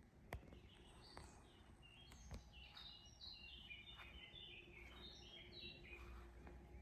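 A songbird singing faintly: a long run of short, high chirping notes that step up and down in pitch. A few sharp clicks come through, one near the start and one about two seconds in.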